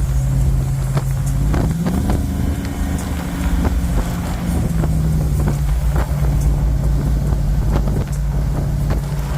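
Car engine running through cut-off exhaust pipes while driving, too loud. The engine note climbs about two seconds in, then eases back down and runs steady.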